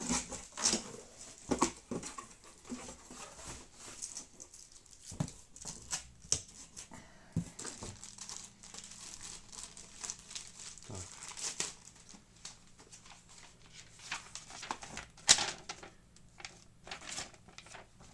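Unboxing packaging handled: irregular crinkling and rustling of paper and plastic, with short tearing sounds and light knocks of items being taken out of the box. The loudest rustles come near the start and again about 15 seconds in.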